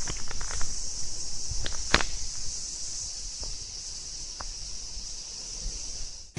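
Steady high-pitched insect chorus over a low rumble, with a few sharp clicks in the first two seconds.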